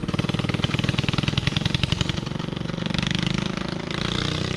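Mini-bike's small single-cylinder four-stroke engine running with a rapid, even firing beat, its note shifting a little about two seconds in.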